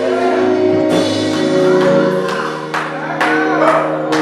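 Live gospel church music: sustained keyboard chords with sharp percussion hits and voices.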